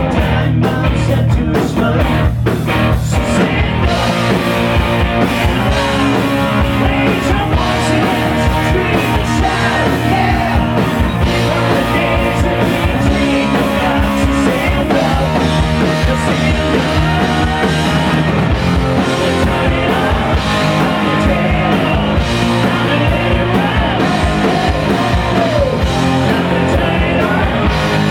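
Loud rock music with electric guitar, played at a steady full level.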